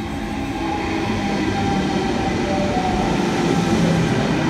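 A NSW TrainLink V set double-deck intercity electric train arrives at the platform, getting louder as it comes alongside. Its rumble carries a motor whine that falls slowly in pitch.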